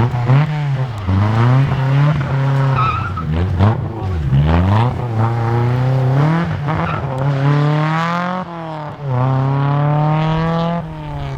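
Rally car engine revving hard under load. Early on the pitch swoops down and up several times, as it does when the driver brakes, downshifts and blips the throttle. After that come three long rising pulls through the gears, each cut by a sudden drop at the shift.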